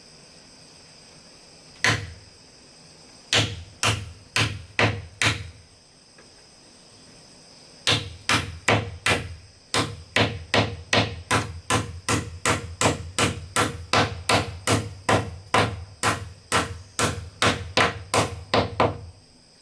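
Repeated blows of a hand tool striking wood or bamboo, like hammering: a single strike, a quick run of four, then an even run of about two strikes a second for the last eleven seconds. A steady, high-pitched chirring of insects runs underneath.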